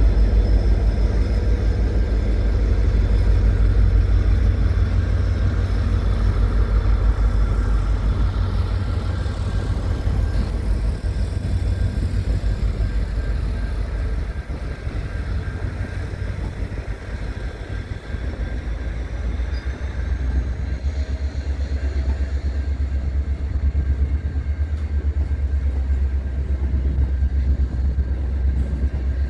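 A long train passing close by: the steady rumble of carriages and container wagons rolling on the rails, easing slightly about halfway through and building again.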